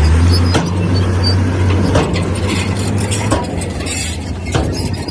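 Heavy diesel earthmoving machine running with a deep, steady engine drone that eases off slightly about three seconds in. Four sharp metallic knocks sound at roughly one-and-a-half-second intervals over it.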